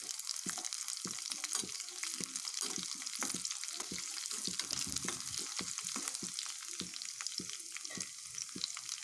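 Tempering spices, dried red chillies and crushed garlic sizzling and crackling in hot oil in a steel kadai, with many sharp pops, while a slotted steel spatula stirs and scrapes against the pan.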